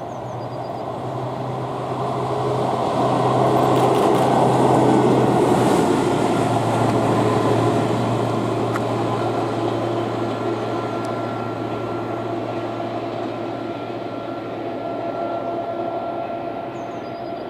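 VolkerRail ballast regulator DR77802 running past on its diesel engine: a steady engine hum that grows louder to a peak about five seconds in, drops in pitch as it passes, then slowly fades. Described as sounding quite nice.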